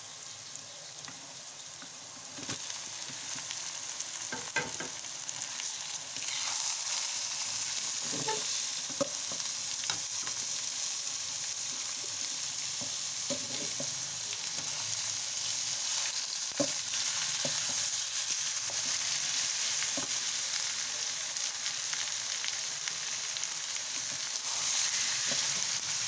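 Raw chicken pieces and sliced onions sizzling in hot oil in a metal karahi, stirred with a wooden spatula that clicks and scrapes against the pan. The sizzle grows louder about six seconds in and stays steady after that.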